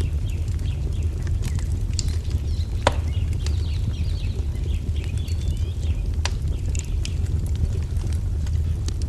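Wood fire crackling, with scattered sharp pops (the loudest about three seconds in) over a steady low rumble. Faint bird chirps come through in the middle.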